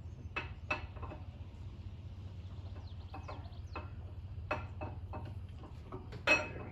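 Light metallic clicks and taps, irregular and a second or so apart, as a camshaft is slid and turned into the engine block's cam bearings, with a sharper knock near the end. A steady low hum sits under it.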